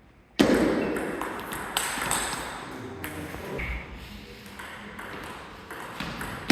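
Table tennis rally: a celluloid ball pinging off paddles and the table in short, sharp clicks, starting suddenly about half a second in.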